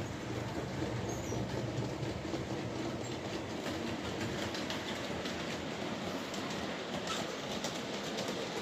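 Model train running on the layout's track: a steady motor and wheel running noise with light clicks from the wheels over the rails.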